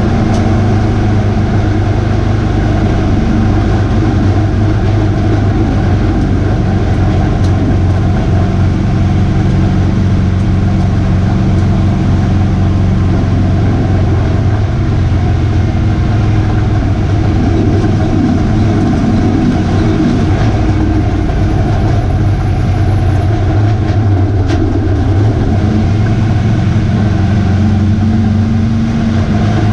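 A pro race truck's V8 engine running hard at racing speed. Its note holds steady, then dips and climbs back up about two-thirds of the way through.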